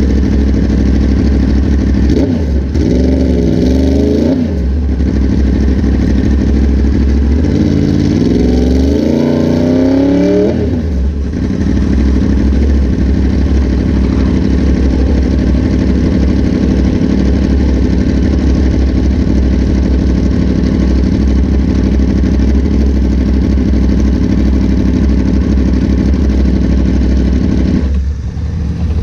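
Motorcycle engine run hard on a race track, climbing in pitch in stepped runs through the gears twice in the first eleven seconds, then holding a steady high-speed note over a broad rush of noise.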